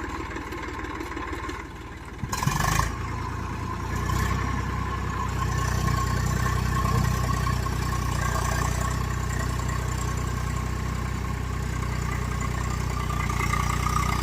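Tractor diesel engine running steadily. There is a short loud burst about two and a half seconds in. From about four seconds in the engine runs louder and holds steady under load, with a faint whine.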